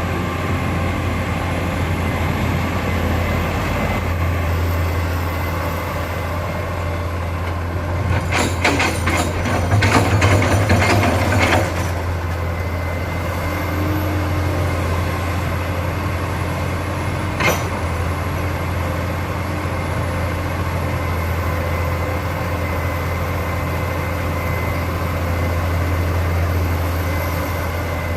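Heavy diesel engine of earth-moving equipment running steadily, with a spell of clattering and knocking about eight to twelve seconds in and a single sharp click later.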